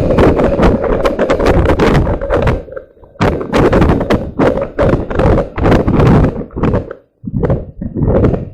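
Rapid thunks and rattles over rumbling wind noise from a camera riding on a moving bike. The sound drops out briefly about three seconds in and again about seven seconds in.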